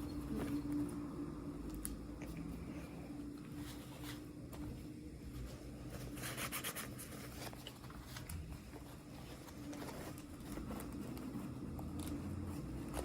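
Small toy packaging being handled and opened by hand: scattered light clicks and rustles, with a brief crinkling or tearing burst about six and a half seconds in. A steady low hum runs underneath.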